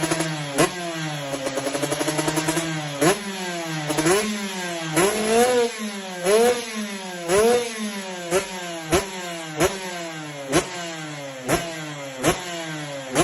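Supermoto motorcycle engine revved in quick repeated throttle blips, the pitch jumping up and sinking back roughly once a second, with a short crack at many of the blips.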